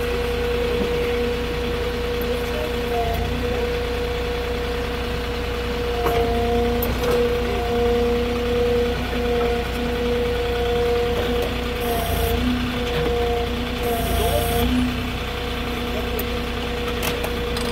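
Forklift engine running steadily with a constant pitched whine. Two short hisses come in the second half.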